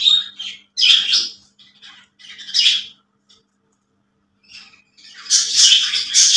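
Female budgerigar chirping and squawking in short, harsh calls about a second apart, then a pause, then a denser run of calls near the end.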